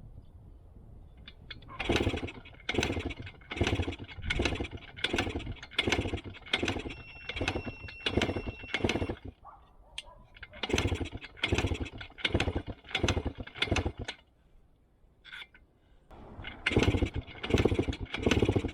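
1973 Yamaha AT3 125's two-stroke single-cylinder engine being kick-started over and over in three runs of short strokes, about one and a bit a second, turning over without settling into a steady run.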